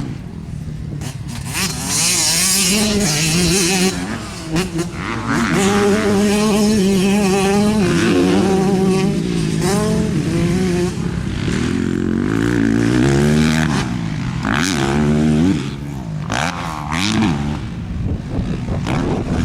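Motocross bike engine being ridden hard, its pitch climbing and falling again and again as the throttle is opened and closed, with a few brief drops around 4, 11 and 16 seconds in.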